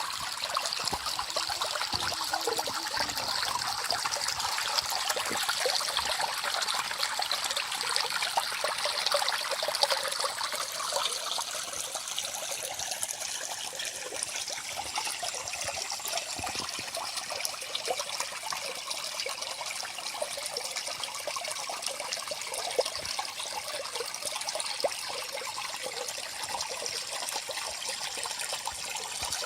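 Small forest stream running and trickling over stones, a steady babbling and splashing of water.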